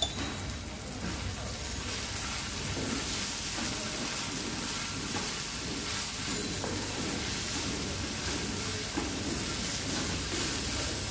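Sliced onions and sweet corn sizzling steadily in oil and ghee in a large black pan, stirred and scraped with a metal spatula from about two seconds in, with a brief knock at the very start. The onions are still giving up their water as they fry.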